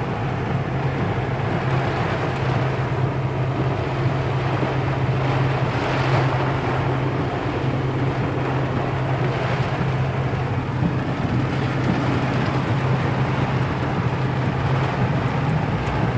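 Heavy storm rain falling on a car's roof and windshield: a steady, dense rushing noise with the car's low hum underneath.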